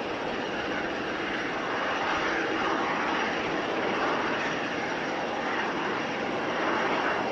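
Jet airliner's engines on approach to land: a steady rushing roar with a faint whine, swelling a little louder about two seconds in and again near the end.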